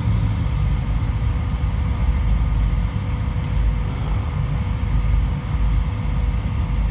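Car engine running steadily at low speed: a deep, even rumble with a faint steady hum above it.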